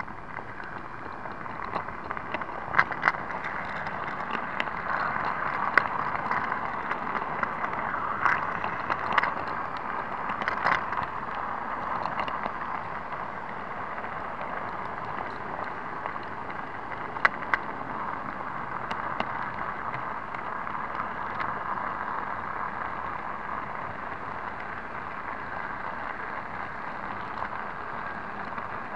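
A model 009 narrow gauge diesel locomotive running along its track, heard from on board as a steady whirring rattle. Scattered sharp clicks come mostly in the first dozen seconds.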